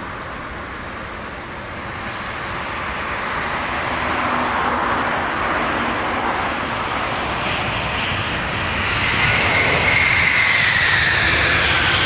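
Jet airliner on landing approach, its engine noise growing steadily louder as it nears. In the second half a high engine whine comes in and slides down in pitch as the aircraft passes.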